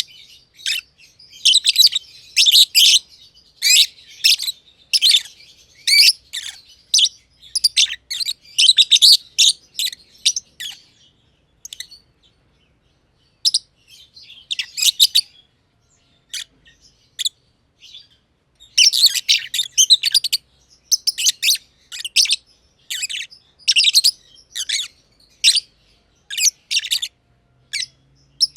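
Black-masked (personata) lovebirds chirping in quick, high-pitched runs. The chirping breaks off for about two seconds partway through, comes back sparse, then turns dense again.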